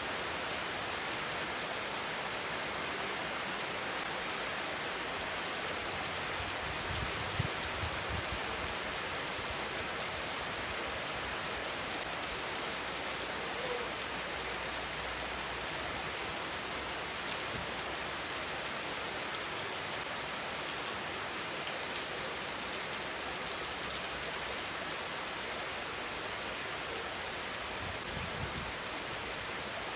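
Steady rain falling, an even hiss throughout, with brief low rumbles of wind about seven seconds in and again near the end.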